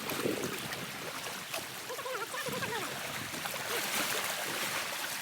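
Sea water washing on the shore, a steady rushing noise that swells slightly towards the end.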